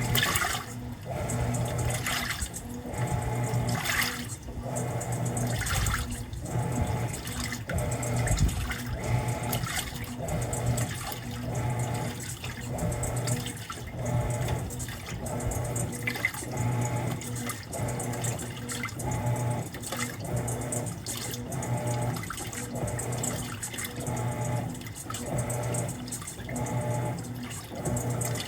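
Mueller Popmatic 8 kg top-loading washing machine agitating, its motor and agitator working in regular strokes every second or two with water sloshing in the tub: the short settling agitation of the cycle before the load is left to soak.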